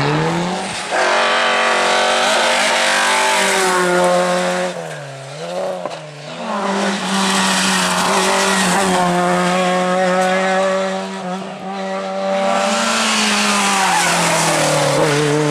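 Rally car engine held at high revs, with a brief lift off the throttle about five seconds in and another near twelve seconds, each followed by the revs coming straight back up.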